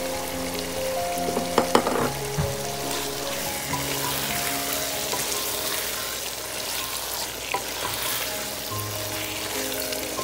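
Chicken pieces sizzling as they fry in a pot while a wooden spoon stirs in a sauce of chili sauce and ketchup, with a few sharp knocks about a second and a half in. Soft background music with sustained notes plays underneath.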